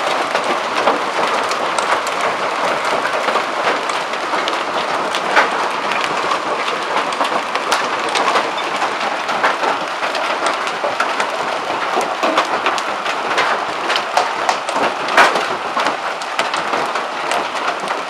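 Hail with heavy rain: a dense, steady patter broken by many sharp ticks of hailstones striking hard surfaces, with a few louder cracks scattered through it.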